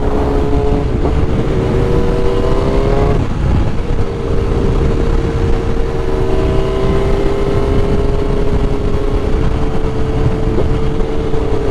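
Sport motorcycle engine pulling under acceleration while riding, its pitch rising, with a gear change about three seconds in and then a slow climb again. A heavy rush of wind noise lies under it.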